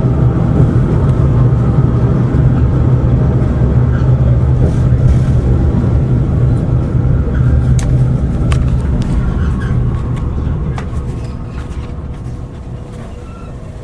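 Kanto Railway KiHa 2000 diesel railcar running, heard from on board: a heavy low rumble from the engine and wheels that dies down over the last few seconds. A few sharp clicks and short squeaks come through in the middle.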